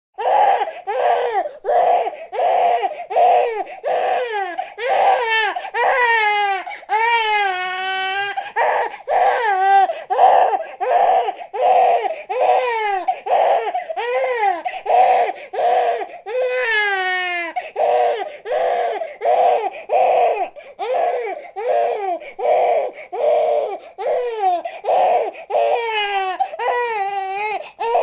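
Newborn baby crying in short, rhythmic cries about two a second, broken by a few longer wails that fall in pitch.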